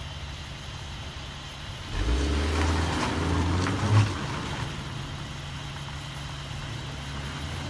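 Car engine running steadily, heard from inside the cabin. A louder low vehicle rumble rises about two seconds in and fades just after four seconds.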